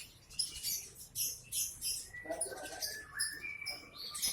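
Caged songbirds chirping together: quick, high-pitched chirps repeating about two or three times a second, with short whistled notes joining in the second half.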